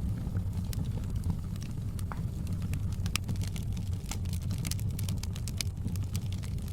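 Wood fire in a fireplace crackling, with frequent sharp pops and snaps over a steady low rumble of the flames; the crackles come thickest in the second half.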